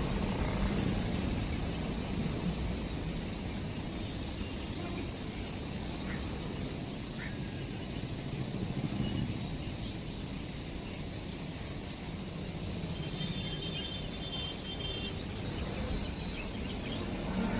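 Steady rumble and hiss of a running train, easing slightly after the start, with a few faint high chirps about two-thirds of the way through.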